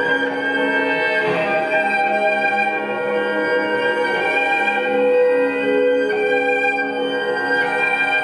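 Live instrumental music from a small ensemble, several long held notes sounding together and changing slowly, without singing.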